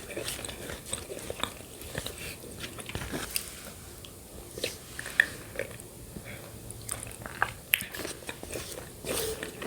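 Close-miked ASMR eating sounds: a mouth chewing yogurt with shredded coconut, with many small irregular wet clicks and smacks.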